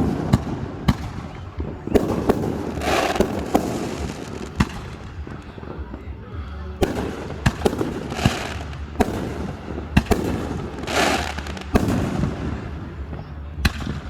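Aerial fireworks going off: a string of sharp bangs, roughly one or two a second, with three longer crackling bursts spread through.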